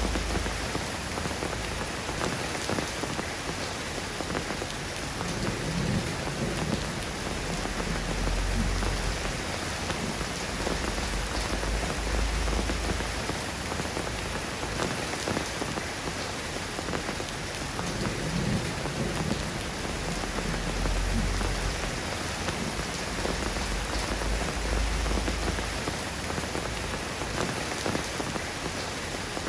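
Steady rainfall, an even hiss of drops, with a few low rumbles that swell and fade every several seconds.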